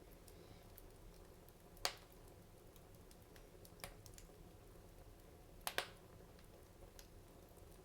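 Wood fire crackling in a fireplace: a few sharp pops over a quiet background, the loudest about two seconds in, a smaller one near four seconds, a quick double pop just before six seconds, and faint ticks in between.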